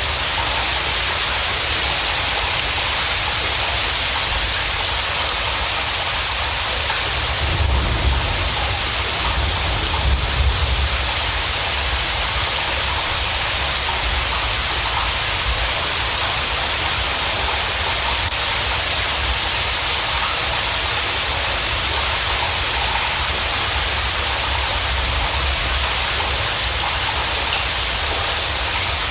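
Steady rain falling, a dense even hiss, with two brief low rumbles about eight and ten seconds in.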